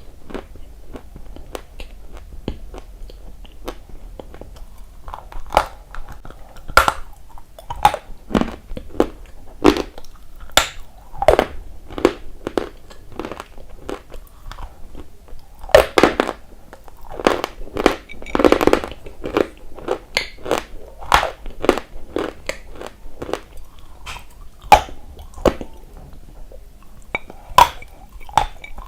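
A person biting and chewing hard, dry, crunchy chunks of eating clay close to the microphone, in an irregular string of sharp crunches that comes thickest and loudest just past the middle.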